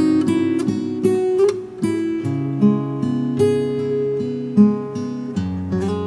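Acoustic guitar playing a slow, relaxing piece, plucked and strummed chords ringing over a held bass note.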